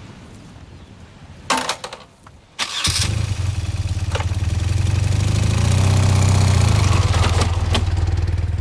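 Motorcycle engine being started: a short burst of noise about a second and a half in, then the starter cranks briefly and the engine catches near the three-second mark and settles into a steady idle.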